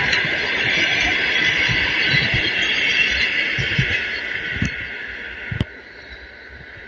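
Passenger train running on the rails: a steady high-pitched wheel-on-rail hiss over a low rumble that fades away, with a single sharp knock a little over halfway through, after which only faint background noise remains.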